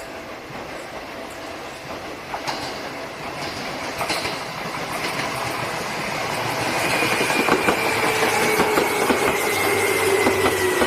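Seibu 2000 series electric train pulling into a station, growing louder as it nears, with wheels clicking over rail joints. From about seven seconds in, a whine falls slowly in pitch as the train brakes and slows.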